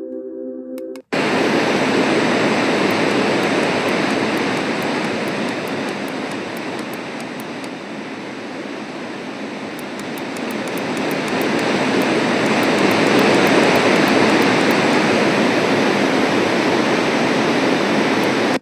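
A Magicteam white noise sound machine switches from a short pitched tone track to a loud, steady rushing noise sound about a second in. The rushing sound swells and eases slowly, with faint scattered high ticks.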